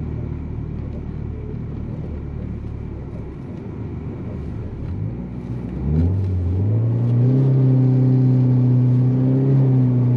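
Turbocharged Volkswagen Jetta's engine running at low revs, then about six seconds in revving up sharply and holding at high, steady revs under load while taking a run at a snow-covered climb.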